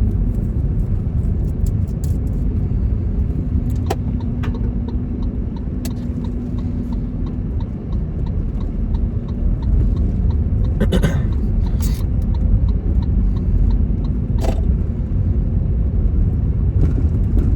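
Car driving, with steady low road and engine rumble heard from inside the cabin and a few brief knocks and clicks scattered through it.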